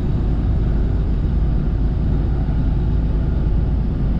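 Semi truck driving at road speed, heard from inside the cab: a steady low engine and road rumble.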